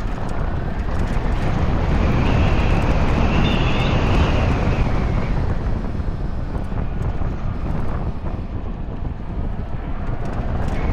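Wind buffeting the microphone over tyre and road noise while riding a homebuilt 96-volt electric motorcycle. A faint high whine rises and falls between about two and five seconds in.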